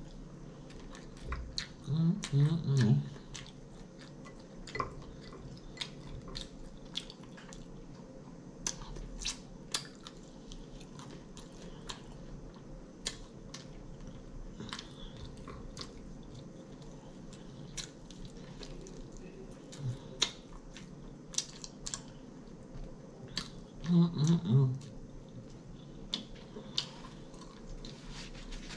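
Close-miked chewing of air-fried chicken, with many small sharp mouth clicks throughout. Twice a short burst of voice stands out above the chewing, about two seconds in and again a few seconds before the end.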